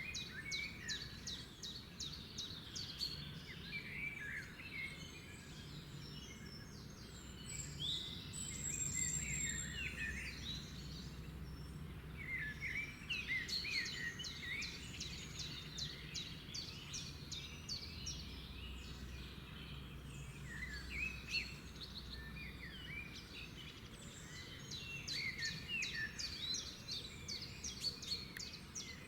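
Several songbirds singing and calling together in bursts of quick chirps and fast trills that come and go every few seconds, over a steady low background hum.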